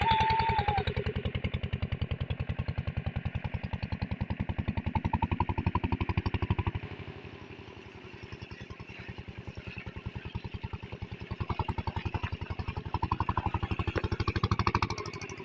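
Engine running with a steady, fast, even beat. About seven seconds in it turns quieter and thinner, then grows louder again near the end before dropping off.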